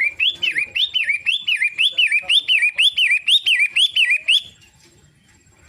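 Long-tailed shrike (pentet) calling: a fast run of repeated sharp notes, each dipping and then rising in pitch, about four a second, breaking off about four seconds in.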